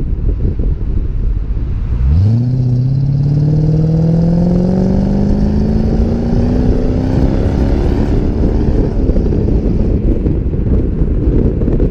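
Mercedes-Benz W215 CL500's V8 through an AMG-style exhaust, accelerating hard: the exhaust note jumps up about two seconds in and climbs steadily in pitch for about six seconds before easing off. Wind buffets the microphone throughout.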